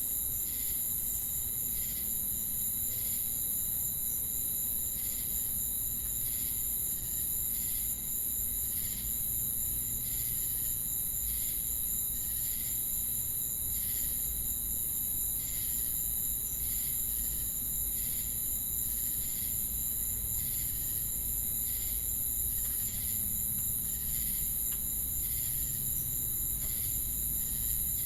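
Chorus of crickets and cicadas: a steady high-pitched shrill with a continuous trill beneath it, and regular chirps about one to two a second.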